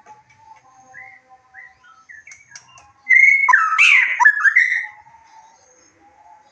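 White-rumped shama (murai batu) singing: about three seconds in, one loud phrase of sliding whistled notes lasting nearly two seconds, over faint thin high notes throughout.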